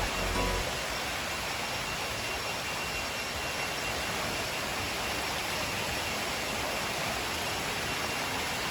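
Steady rushing roar of a waterfall, an even noise with no changes.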